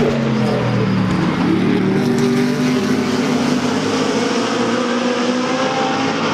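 GT3 race cars running at racing speed, several engine notes at different pitches overlapping and sliding up and down as they pass.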